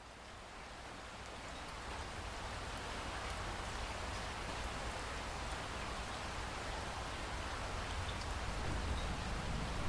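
Steady rain falling, a dense even patter with a low rumble beneath, fading in over the first couple of seconds and then holding steady.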